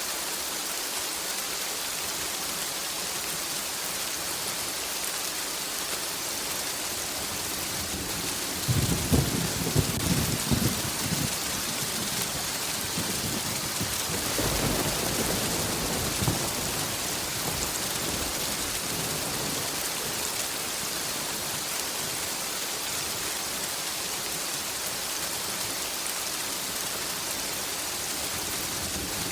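Steady heavy rain hissing, with a thunderstorm overhead: about a third of the way in a sharp crackling thunderclap breaks out. A second, softer roll of thunder rumbles a few seconds later and dies away.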